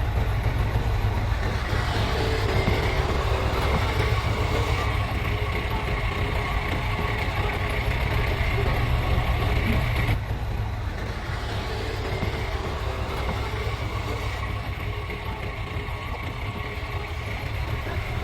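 Heavy diesel earthmoving machinery running steadily with a deep low rumble; the sound eases slightly about ten seconds in.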